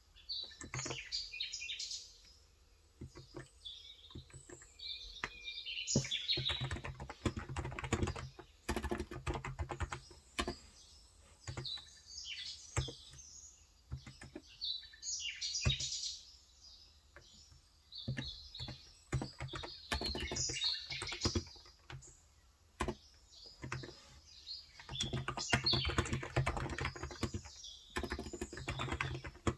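Typing in bursts on a Cox Endeavor electro-capacitive (contactless, Topre-style) 35 g tenkeyless keyboard, with small birds chirping on and off. The first few seconds are mostly birdsong; the typing starts about six seconds in and comes in several runs.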